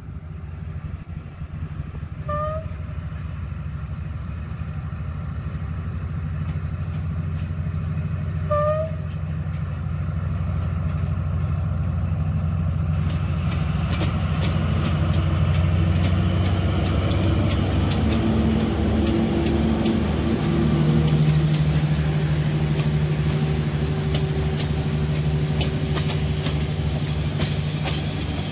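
D19E diesel-electric locomotive running as it approaches, its engine hum growing louder, with two short high chirps early on about six seconds apart. From about halfway, the wheels clack over the rail joints in a steady rhythm as the train passes.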